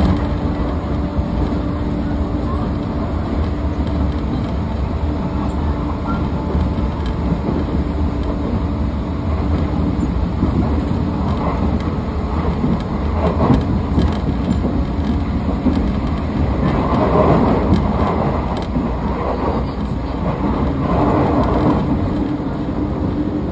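Running noise of a train with Toshiba permanent-magnet synchronous (PMSM) traction motors, heard from inside the car: a steady low hum over the rumble of wheels on rail. The rumble swells louder a few times in the second half.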